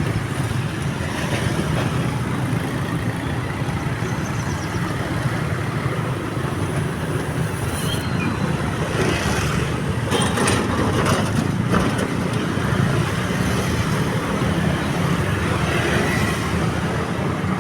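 Road traffic at a railway level crossing: steady engine and tyre noise from passing vehicles, with a few brief clicks about halfway through.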